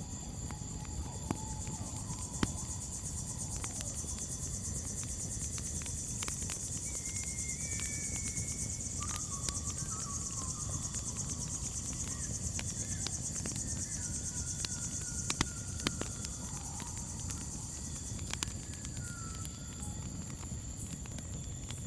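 Campfire crackling with scattered sharp pops over a low rumble, under a steady high chorus of crickets. A few faint, short pitched calls come and go in the middle.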